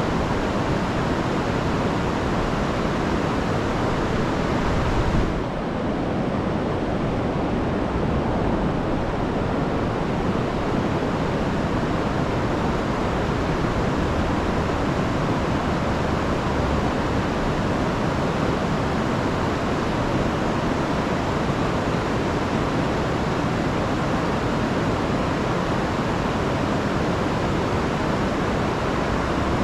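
Steady rush of a rain-swollen river pouring over falls. The hiss turns slightly duller about five seconds in.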